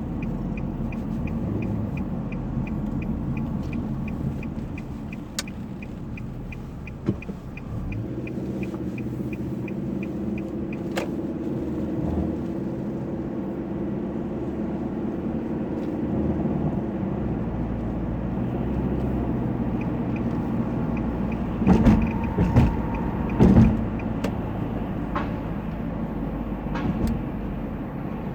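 Motor vehicle engine running steadily, with a fast even ticking of about two to three a second through the first ten seconds and again later. A few louder surges come near the end.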